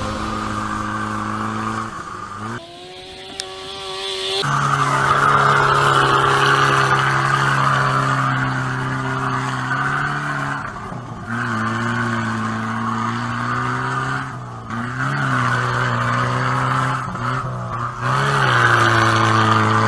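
Off-road jeep's engine running at high revs under load. Its revs drop sharply about two seconds in, pick back up, then dip and recover several more times.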